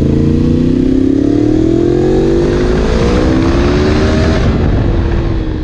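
Yamaha MT-10 SP's crossplane inline-four through an Akrapovic exhaust, accelerating hard with its pitch rising steadily for about four seconds. The pitch then drops at an upshift and settles lower, and the sound begins to fade near the end.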